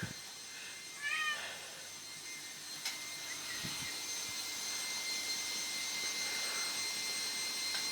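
A domestic cat meows once, short and high-pitched, about a second in, over a steady faint hiss.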